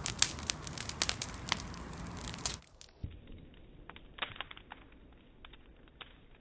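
Bonfire crackling with dense sharp pops and snaps. About two and a half seconds in, the sound drops to a quieter, duller crackle with only scattered pops, as the playback goes to slow motion.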